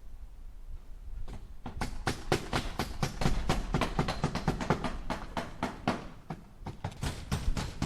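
Hammer striking nails into wood in quick repeated blows, several a second, starting about a second in, with a short pause near the end before the blows resume.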